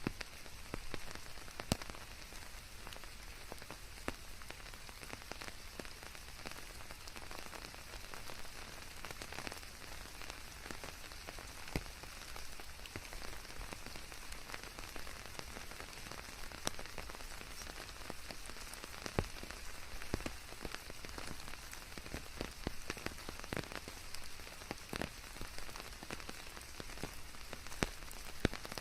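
Steady rain falling on leaves, a continuous hiss scattered with the sharp taps of single heavy drops.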